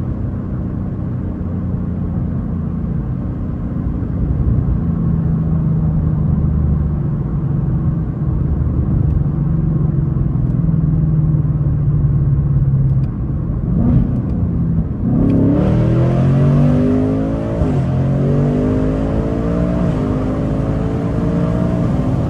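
2024 Mustang GT's 5.0 L V8 cruising steadily at low revs, then put to full throttle about 14 seconds in for a roll from 30 mph. It revs up through the gears, the note rising, dropping at each upshift and rising again. The engine breathes through high-flow air filters with the intake's carbon traps removed.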